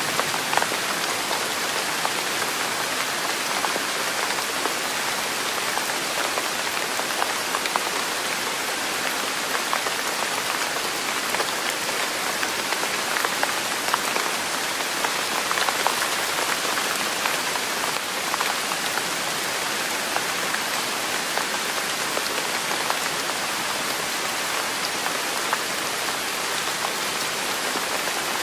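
Steady rain falling, with many small drop hits scattered through an even hiss.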